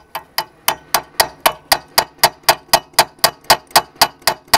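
Light, quick taps of a wrench on the front brake caliper guide pin of a Chery QQ, about four metallic strikes a second, each ringing briefly. The pin is seized with rust because its dust boot had come off and let moisture in.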